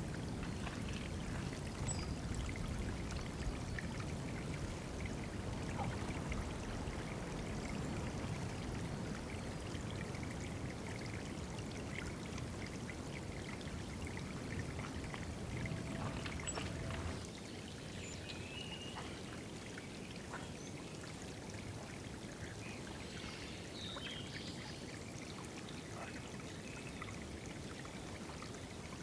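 Water pouring and trickling steadily into a small woodland pool, dropping a little in level about two-thirds of the way through. A few faint, short bird chirps sound over it in the later part.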